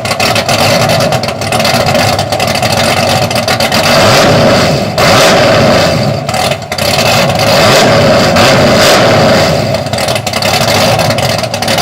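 LS-swapped 5.3 L V8 in a 1968 Chevy wagon running loud through long-tube headers, an X-pipe and a Borla muffler, revved up and let back down several times.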